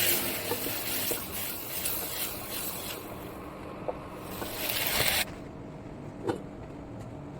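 A rushing noise that cuts off suddenly about five seconds in, followed by a few faint clicks.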